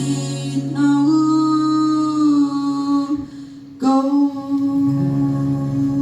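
A woman singing long, drawn-out held notes with no clear words as the song closes, with a short break about three seconds in before a last sustained note.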